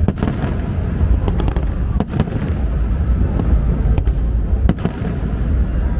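Fireworks display going off: a continuous low rumble of launches and bursts, cut through by many sharp bangs and crackles.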